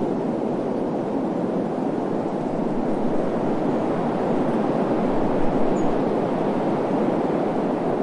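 Steady, even rushing wind noise of a desert ambience, unbroken and unchanging in level, with its weight in the low-middle range.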